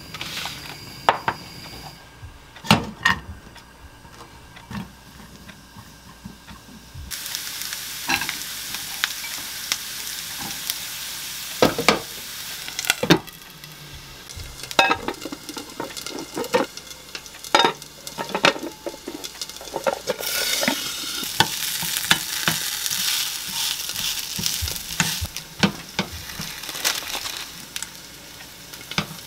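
Julienned sweet potato frying in oil in a pan: a steady sizzle sets in about seven seconds in and grows louder about twenty seconds in. Sharp knocks and clatter of cookware come and go throughout.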